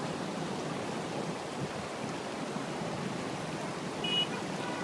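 Steady rushing of flash-flood water flowing in a torrent, with a brief high chirp about four seconds in.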